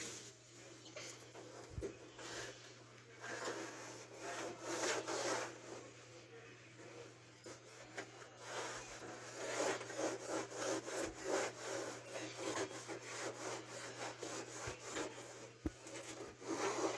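A hand saw cutting wood in quick back-and-forth strokes, about two a second, growing busier and louder partway through.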